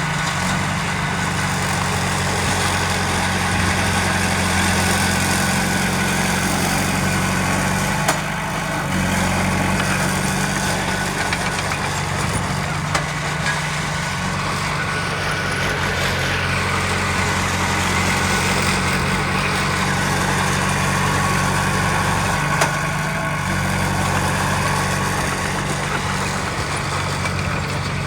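Heavy diesel engine of earthmoving machinery running steadily at low revs, its note shifting slightly a couple of times, with a few brief knocks.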